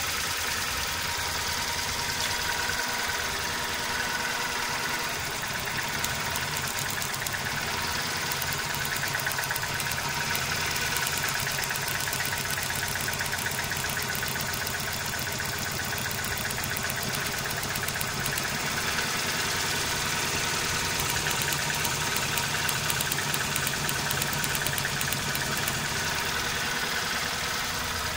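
Toyota 4A-GE 1.6-litre twin-cam 16-valve four-cylinder engine idling steadily.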